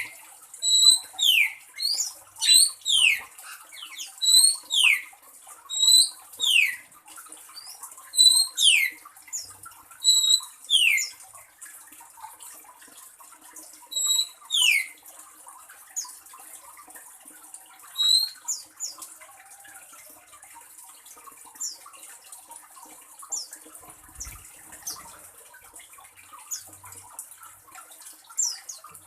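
Oriental magpie-robin calling: short, clear falling whistles, often led by a brief high note, about one a second for the first half, then only scattered faint high notes, over a steady high hiss.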